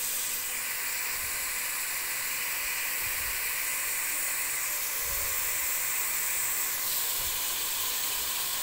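Cubed chicken frying in ghee in a steel pot: a steady sizzling hiss as the juices the meat has released cook off.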